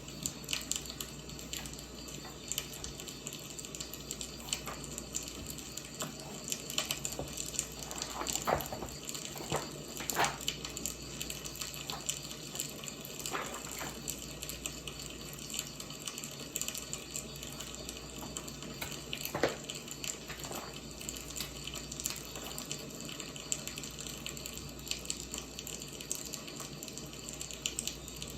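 Wood fire burning, a steady hiss with irregular crackles and a few louder pops of the burning logs.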